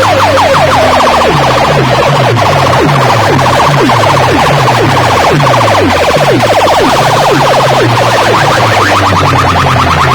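A DJ sound-system rig plays a siren-like competition track at very high volume. Rapid falling electronic whoops come many times a second over a pulsing, stepping bass line, heavily driven.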